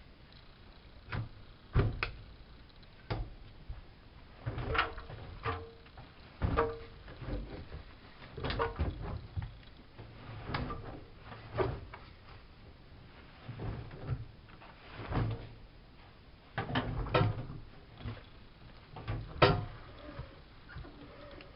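Irregular clacks and knocks of a Bosch WFK 2431 front-loading washing machine's parts being handled, opened and shut, about one every second or two. A few of them ring briefly.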